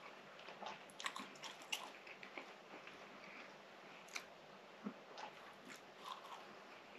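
Close-miked mouth sounds of a person chewing soft baked cheese fatayer: faint, irregular wet smacks and clicks, with a bite near the end.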